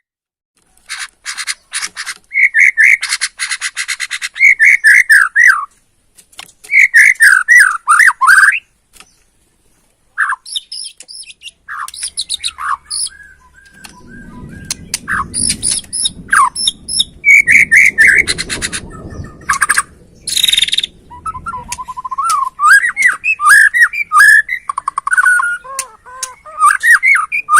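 White-rumped shama (murai batu) singing in bursts of phrases: quick whistled notes run together with fast, rattling chatter, with short pauses between phrases. A faint low rumble sits underneath for several seconds in the middle.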